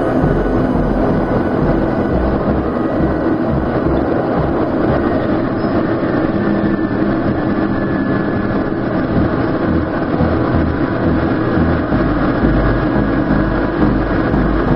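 Aircraft engine noise during a landing: a loud, steady rumble, its hiss dropping away about five seconds in.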